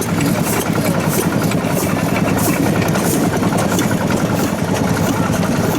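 Old stationary farm engines (hatsudoki) running at idle: a steady rapid beat with louder, irregular sharp puffs over it.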